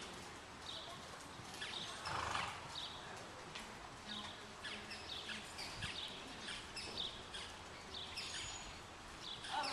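Small birds chirping on and off, short high chirps scattered throughout, over a steady background hiss. A brief louder rush of noise comes about two seconds in.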